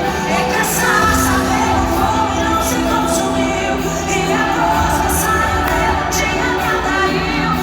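Live band playing a Christian worship song with singing, a steady beat running throughout.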